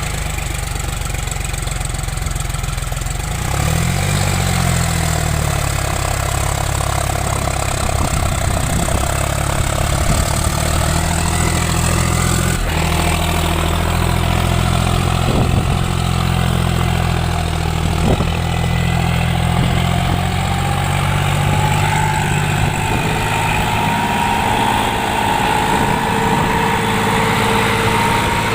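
John Deere 5050D tractor's three-cylinder diesel engine running steadily, with a higher whine that climbs in pitch over the last several seconds.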